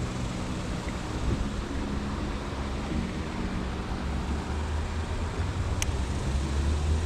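Steady outdoor background noise: a low, uneven rumble under a faint hiss, with one brief high tick near the end.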